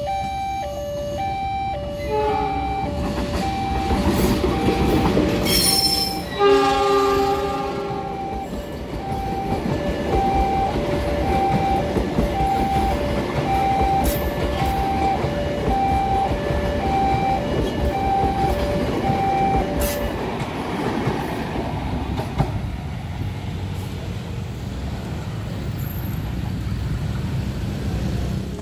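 Level-crossing warning alarm sounding two alternating tones, about one a second, as a diesel-hauled parcel train passes over the crossing. The locomotive sounds its horn once, about six seconds in, then the wagons rumble and clatter over the rails. The alarm stops about twenty seconds in while the wagons keep passing.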